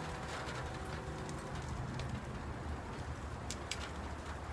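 Light rain falling, a steady hiss with a few drops tapping close by.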